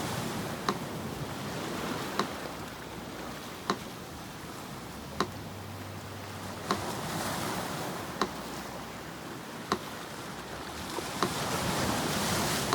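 Sea surf washing steadily, with waves swelling near the start and again toward the end. Over it a metronome ticks slowly and evenly, about one click every second and a half.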